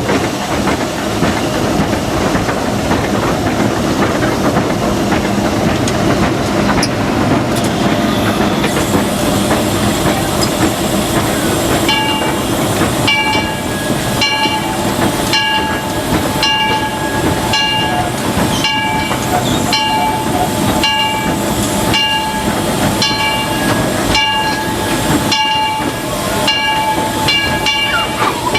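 Cab of the 1925 Baldwin steam locomotive Ernest S. Marsh running along the track, with steady running noise, hiss and a regular clickety-clack over the rail joints. From about twelve seconds in, a high ringing tone sounds over it, broken off at each click.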